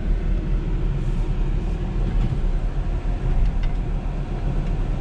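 Low, steady rumble of a car on the move, heard from inside the cabin.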